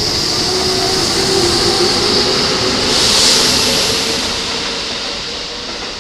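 Keikyu electric train running along the platform, a steady rumble of wheels on rail with a strong high hiss. It is loudest about three seconds in and then slowly fades as the train moves away.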